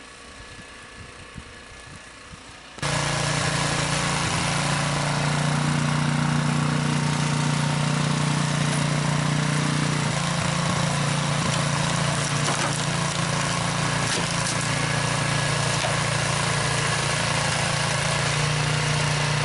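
Small engine running steadily, close by. It cuts in suddenly about three seconds in after a quieter stretch, with a strong low drone and a broad mechanical hiss.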